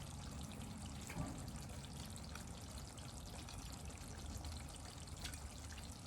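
Faint steady low hum and hiss of background room noise, with one soft brief sound about a second in.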